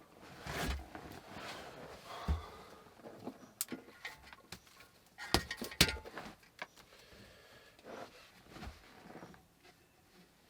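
Scattered knocks, clicks and rustles of objects being handled, with the sharpest cluster of clicks a little past halfway.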